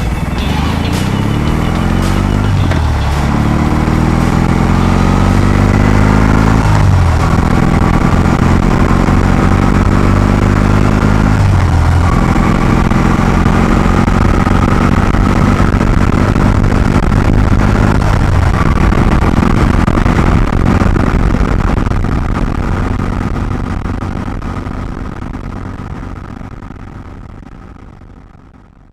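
Air-cooled twin-cylinder motorcycle engine accelerating through the gears: the pitch climbs and drops back with each of four upshifts, then holds at a steady cruise before fading out near the end.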